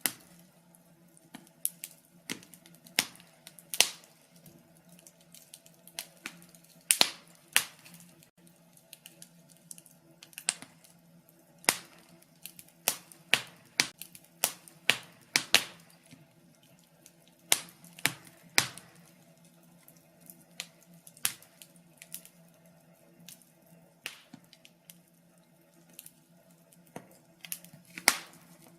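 Wood fire crackling in a fireplace: irregular sharp pops and snaps, often several in a second, over a faint steady hum.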